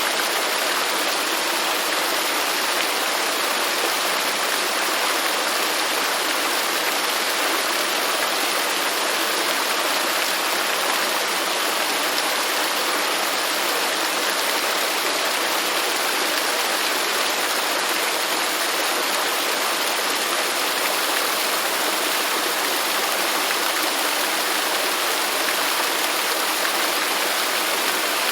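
Waterfall: a steady, unbroken rush of falling water, with no change in level.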